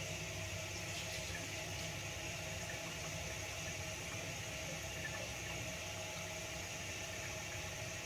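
Steady hiss with a low hum, even in level throughout, with no back-and-forth stroke rhythm.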